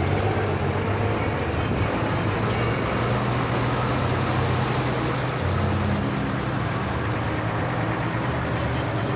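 Heavy truck diesel engines idling: a steady low drone whose pitch shifts a little midway, with a brief hiss near the end.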